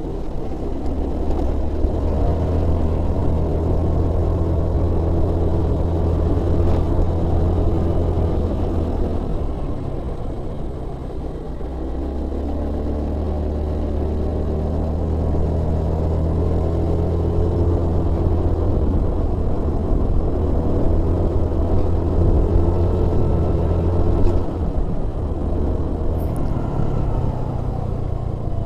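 Road vehicle's engine running steadily under load while driving up a hill. It eases off about ten seconds in, then picks up again.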